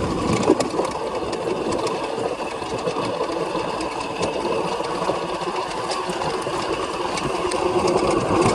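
Electric motor of a 2000 W e-bike whining steadily while riding, with many short clicks and rattles from the bike over rough ground.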